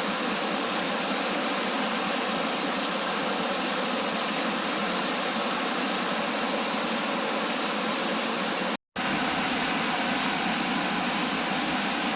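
Waterfall on Grindstone Creek: a steady rush of falling water, broken once by a brief gap of total silence about nine seconds in.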